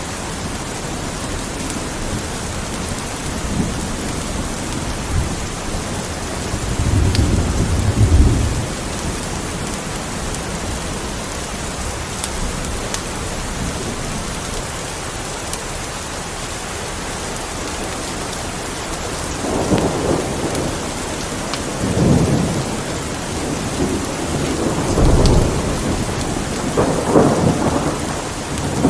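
Steady rain with rolling thunder: one low rumble about a quarter of the way in, then a longer series of rumbles through the last third. Faint crackles of a wood fire in a fireplace come through now and then.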